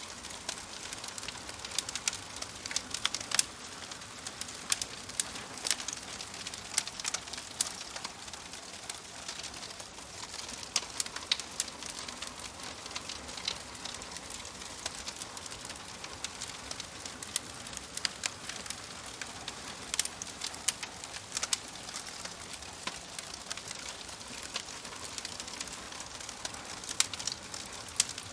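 Wood fire crackling in a fireplace: a steady soft hiss with frequent, irregular sharp pops and snaps.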